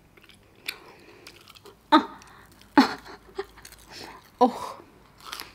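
A person chewing a mouthful of crunchy breaded fried food close to the microphone, with about five sharp crunches spread through the chewing.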